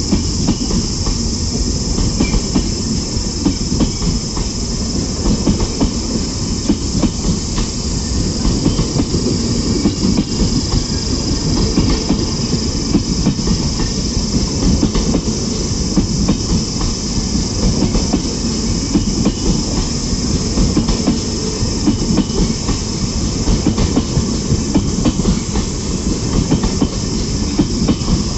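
Passenger coaches of the Rajdhani Express running on the track at speed: a steady rail rumble with continual clickety-clack of wheels over the rail joints and a high hiss.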